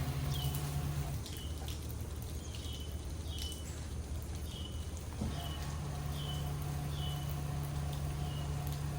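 A songbird repeating one short, falling chirp over and over, roughly one and a half times a second, over a steady low hum.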